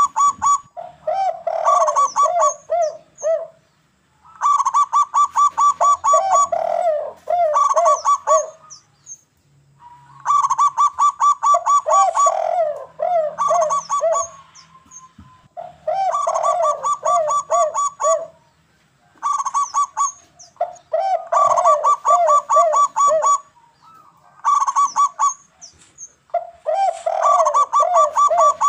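Zebra doves (perkutut) and derkuku doves cooing in overlapping bouts. Fast strings of short, evenly repeated higher notes mix with lower, rolling coos, in phrases a second or two long with brief pauses between them.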